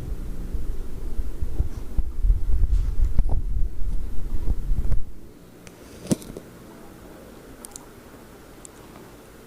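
Low, uneven rumbling buffeting on the microphone for about five seconds, then it drops away suddenly to a quiet background, with one sharp click about a second later and a few faint high ticks after that.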